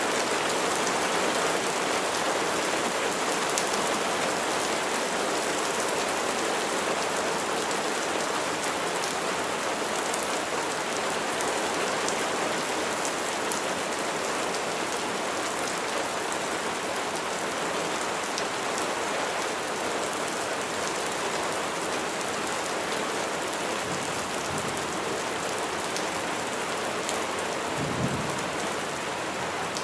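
Steady rain falling and pattering on a surface, with many individual drops ticking. A brief low rumble comes near the end.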